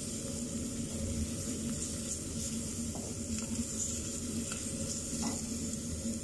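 Chopped onion and garlic sizzling as they fry in butter and oil in a stainless steel pot, a steady hiss, with a wooden spatula stirring and now and then scraping against the pot.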